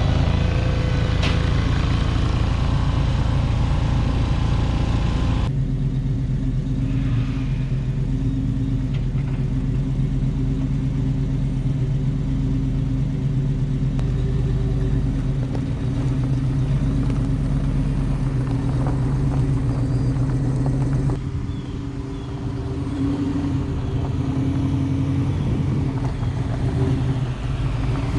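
Restomod 1970 Chevrolet El Camino's engine running steadily with a low rumble, its sound changing abruptly twice.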